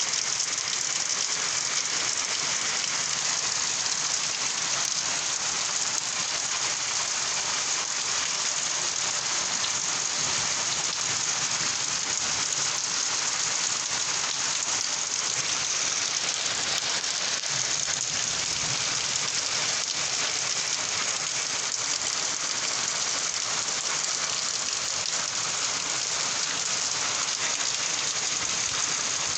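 Steady rain falling and hitting surfaces, a constant even hiss that neither builds nor eases.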